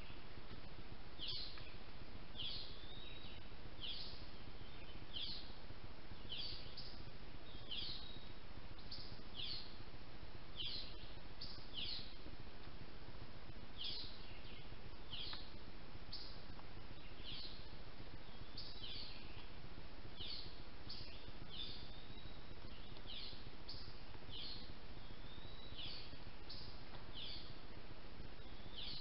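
A bird calling over and over: short, high, falling notes about once a second, some followed by a brief second note, over a steady hiss.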